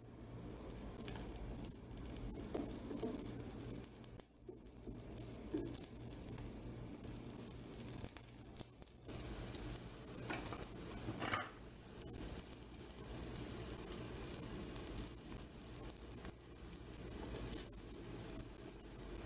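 Zucchini pieces sizzling as they fry in oil in a nonstick pan, a steady crackle, with two brief knocks about ten seconds in.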